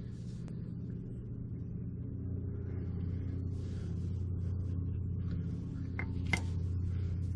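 A motor running with a steady low hum that gets louder about two seconds in, with a few small clicks near the end.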